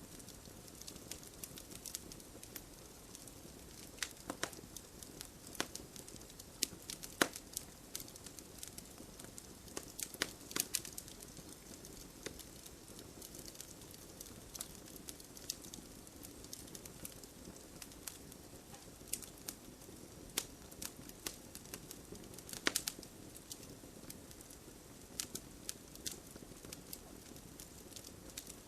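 Campfire burning with a steady low hiss and irregular sharp crackles and pops from the burning wood.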